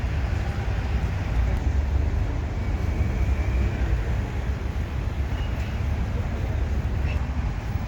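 City street ambience: a steady low rumble of traffic under an even background hiss.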